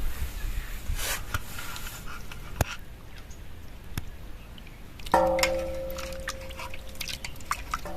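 A metal cooking vessel struck once about five seconds in, ringing with several tones that fade over a couple of seconds, after a few lighter clicks and knocks.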